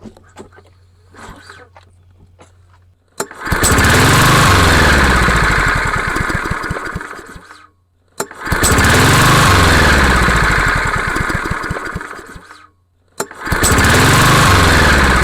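Single-cylinder PowerMore 140cc mower engine pull-started three times: each time it catches, runs for about four seconds while its speed rises and then sags, and dies, the third run still going at the end. Starting and then dying like this is what the mechanic reads as a carburetor problem.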